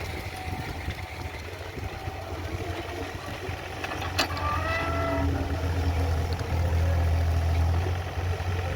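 Diesel engine of a JCB earthmoving machine running with a steady low rumble, getting louder about halfway through. A sharp knock about four seconds in is followed by a brief high squeal.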